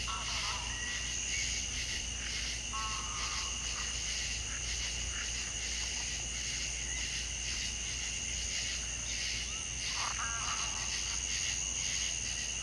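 Steady high-pitched insect chorus, two shrill continuous tones, with a few short chirping calls about three seconds in and again about ten seconds in.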